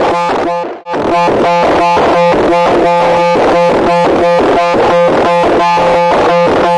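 A loud, harsh buzzing tone pulsing rapidly at about five pulses a second. It breaks off briefly just under a second in, then carries on.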